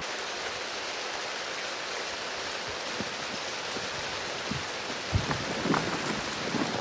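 Steady rain falling, an even hiss, with a few louder drips after about five seconds.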